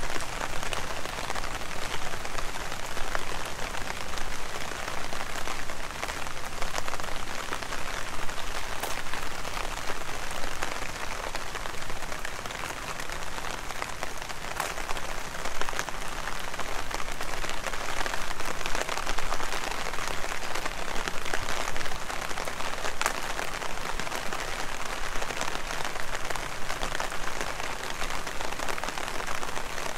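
Heavy rain falling: a steady hiss with many sharp ticks of individual drops striking close by.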